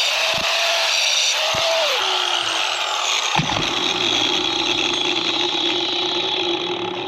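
Angle grinder with a cut-off wheel cutting through metal, a loud steady grinding hiss over the motor's whine. The motor note drops about two seconds in, with a sharp knock about a second later, and the cut runs on until just before the end.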